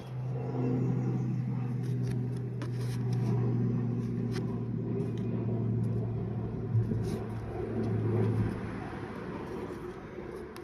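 A steady low motor hum that stops about eight and a half seconds in, with a few faint clicks over it.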